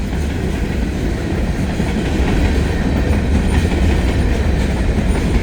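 Two heavy freight trains passing each other close by: a steady, loud rumble of railcar wheels with clickety-clack over the rail joints, growing slightly louder about two seconds in.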